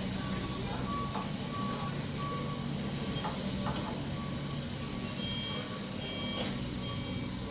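Reversing alarm of a heavy clean-up vehicle beeping repeatedly over a running diesel engine, with a second, higher-pitched reversing beeper joining about five seconds in.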